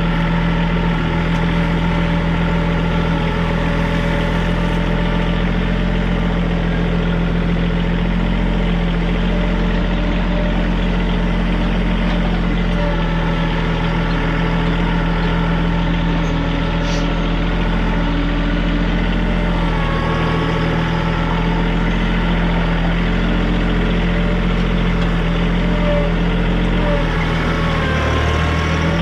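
TYM compact tractor's diesel engine running steadily.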